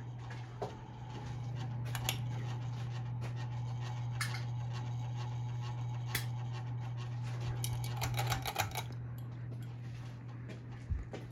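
Hampton Bay Carousel ceiling fan (made by CEI) running with a steady low motor hum, with scattered light clicks and a short cluster of clicks about eight seconds in.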